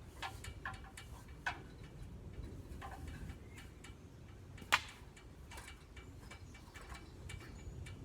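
Scattered light clicks and knocks of a ladder being handled and taken down, with one sharper knock about halfway through.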